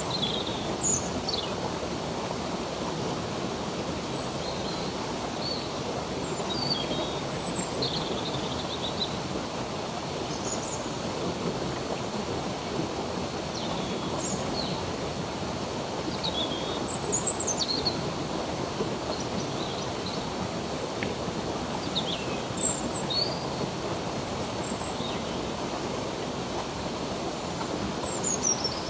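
Stream water running steadily, with small birds chirping and calling in short high notes and quick downward sweeps every second or two.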